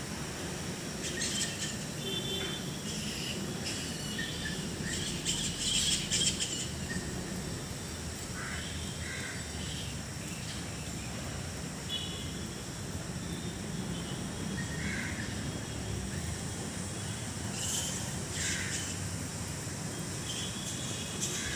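Birds chirping and calling in short scattered bursts, loudest about five to six seconds in, over steady low background noise.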